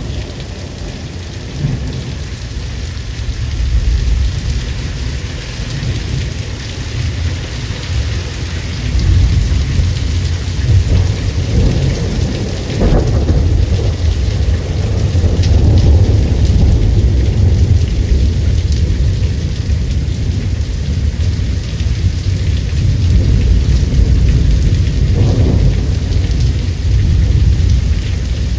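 Steady heavy rain with long, low rolling thunder, which grows louder about a third of the way in and swells twice more.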